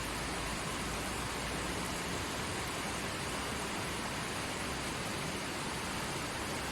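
A forest stream flowing, a steady even rush of running water with no breaks.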